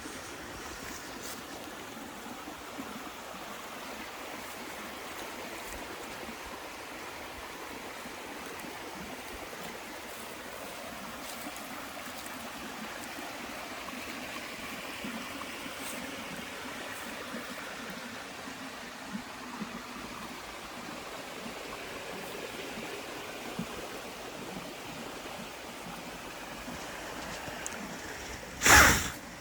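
Steady rushing water, as of a forest stream, with a brief loud burst of noise about a second before the end.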